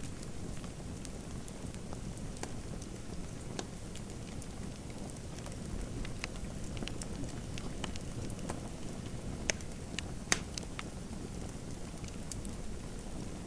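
Wood fire crackling in a fireplace: a steady low rumble of flames with irregular small pops and snaps, two sharper pops about two-thirds of the way through.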